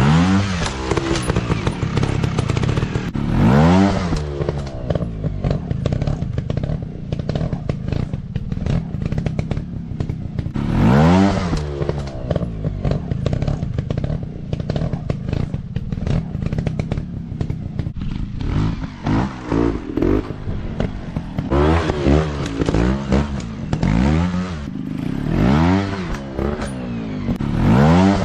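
Small dirt bike engines running and revving, the pitch sweeping up and back down again and again over a steady low engine note, with the revs coming every couple of seconds in the last third.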